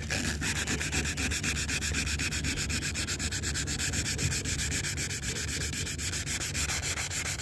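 Hand sanding with sandpaper wrapped over one finger, rubbing quickly back and forth over pinholes in a van's fender flare to smooth them, in quick, even strokes.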